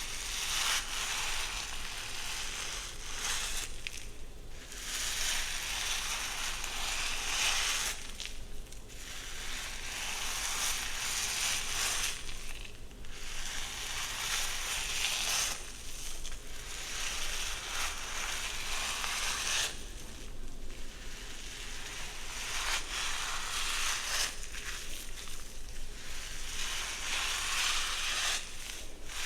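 Long, close rustling strokes through a person's hair, each lasting a few seconds with a short pause between them, about eight in all.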